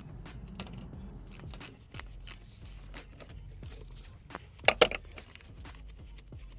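Metal clinks and rattles of tools and hardware being handled, with a loud clatter of two sharp clanks about five seconds in.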